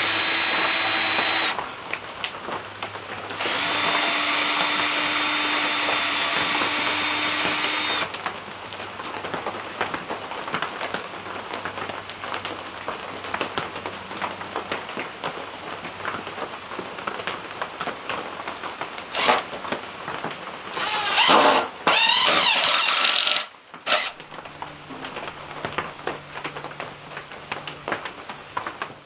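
A handheld power tool runs in two steady whining bursts of a few seconds each, one at the start and one from about three and a half to eight seconds in. A shorter, wavering run comes near the end, with light knocking and clatter in between.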